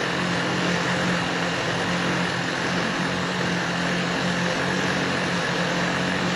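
Model airplane glow engine idling at a steady speed, its idle mixture set too lean. The idle holds steady as the glow plug clip goes on and off, a classic sign of a lean idle.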